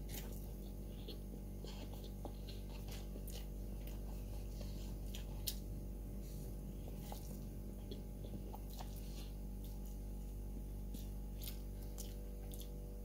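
Someone chewing a mouthful of instant fried noodles eaten from a cup with chopsticks: soft, scattered wet mouth clicks and squishes. A steady low hum runs underneath.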